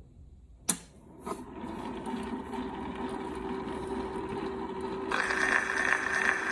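Columbia Graphophone BQ cylinder phonograph starting to play a celluloid Indestructible cylinder. A click comes just under a second in, then the machine runs with a steady mechanical hum. About five seconds in, the record's surface hiss starts suddenly, just before the recording begins.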